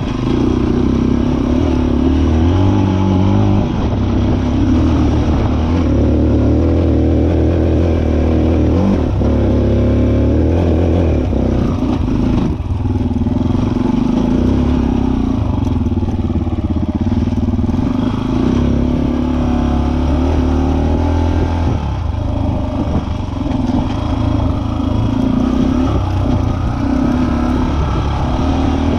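SWM Six Days motorcycle's single-cylinder engine on its original exhaust, running continuously with the revs rising and falling as the throttle opens and closes, with several brief dips.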